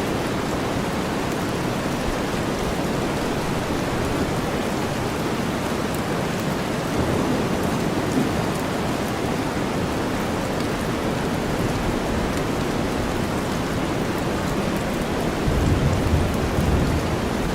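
Steady rain blended with deep white noise: a dense, even hiss heavy in the low end, with faint drop ticks on top. About two seconds before the end a low rumble swells in beneath it.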